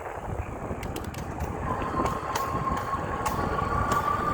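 E-bike running on throttle only over a wet road: a steady rumble of tyres and wind, with a thin whine that starts about two seconds in and rises slightly, and several scattered sharp ticks.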